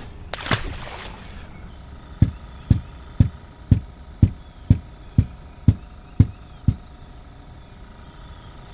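A small splash about half a second in as a released striped bass drops back into the lake. Then a run of ten dull knocks, evenly spaced about two a second, that stop about two seconds before the end.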